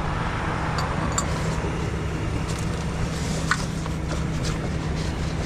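Tow truck engine idling with a steady low drone, with a few light clicks over it.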